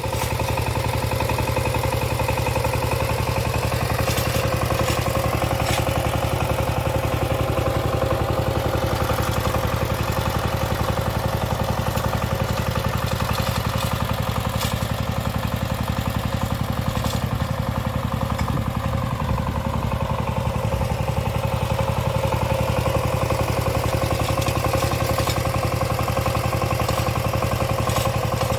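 Walking tractor's engine running steadily as it is driven on a test run, with a faint clatter and a few clicks now and then.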